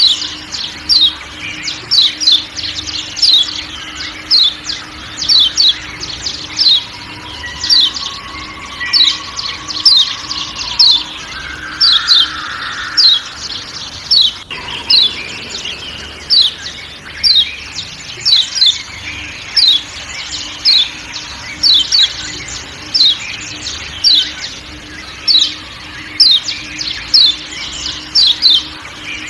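Kecial kuning (yellow white-eye, Zosterops) giving sharp 'ciak ciak' calls: short, high, downward-slurred notes repeated steadily, often in quick pairs, over faint forest ambience.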